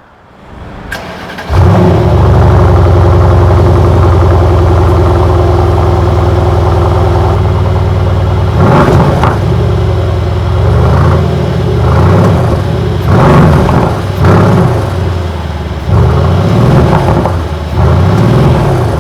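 Mercedes-AMG GLC 63 S twin-turbo V8 starting with a sudden loud catch about a second and a half in, then running at a steady idle. Through the second half it is revved in a string of short throttle blips, each rising and falling in pitch.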